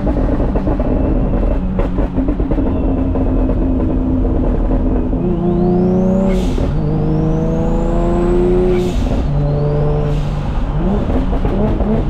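Turbocharged Nissan G35's 3.5-litre VQ V6 under a third-gear pull. It runs steadily for a few seconds, then climbs in revs with a rising turbo whistle over it. Short bursts of hissing air come about halfway and three-quarters through, followed by a brief second climb.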